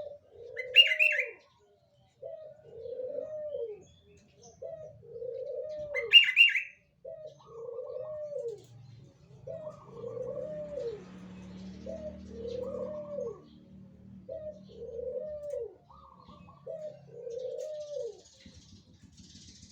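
Barbary dove cooing: a two-part coo, a short note then a longer arched one, repeated about eight times roughly every two seconds. Two brief, louder high-pitched sounds come about one second and six seconds in.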